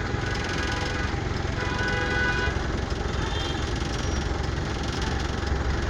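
Vehicle engine running steadily, a continuous low rumble with road traffic noise around it.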